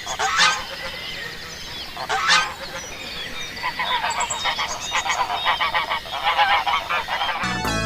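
Goose honking: a couple of separate honks, then a long run of quick repeated honks in the second half. Music comes in right at the end.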